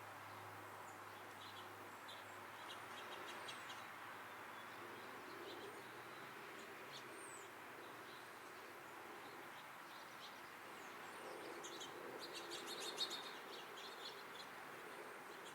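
Small songbirds chirping: short, high calls scattered throughout, with a denser flurry of calls late on, over a steady background hiss.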